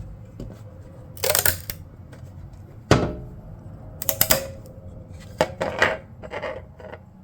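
Removable steel build plate of a 3D printer being handled and flexed to free a fresh print: a handful of sharp clicks and clatters a second or so apart.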